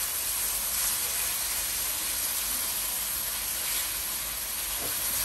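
A pepper, onion and ginger-garlic mix sizzling steadily as it fries in oil in a non-stick wok while a silicone spoon stirs it.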